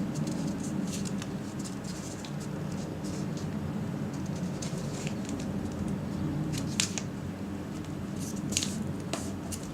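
Origami paper being folded and creased by hand: soft rustling with a few short, sharp crinkles, over a steady low hum.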